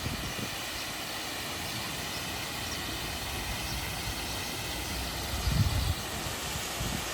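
Garden waterfall: a steady, even rush of falling water. A brief low rumble comes about five and a half seconds in.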